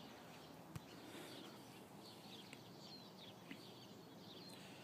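Faint chirps of small birds over a quiet outdoor hiss, with one sharp click a little under a second in.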